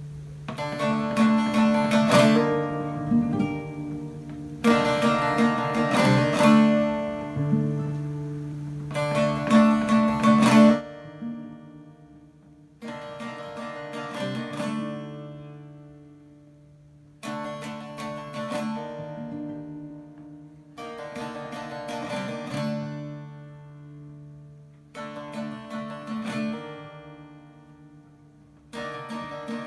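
Instrumental music played on plucked string instruments over a sustained low tone. The first ten seconds or so are fuller and louder; after that the melody comes in quieter phrases, each starting about every four seconds and fading before the next.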